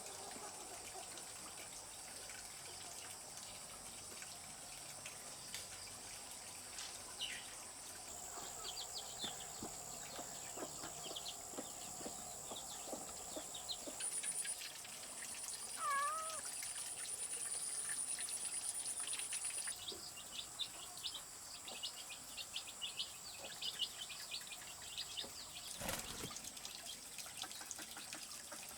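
Quiet farmyard ambience: a steady high insect drone with many short chirps and clicks, and a brief cat meow about 16 seconds in. A single sharp knock comes near the end.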